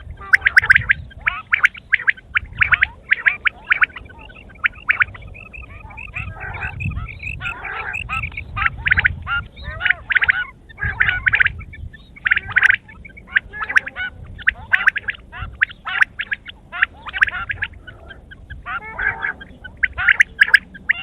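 Quail calling over and over: rapid runs of short, high, rattling calls with brief pauses between runs.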